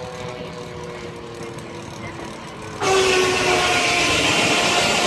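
Steam-engine-driven sawmill blade spinning with a steady hum of several tones. About three seconds in it bites into the log and the sound jumps suddenly to a loud, hissing cutting noise.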